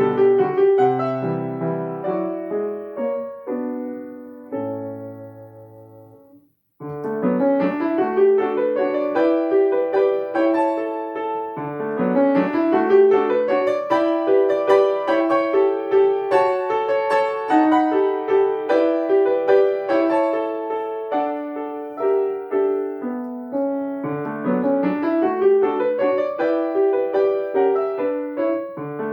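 Solo piano playing a slow waltz. A phrase fades out and breaks off about six seconds in, and after a short pause the melody resumes over a steady accompaniment.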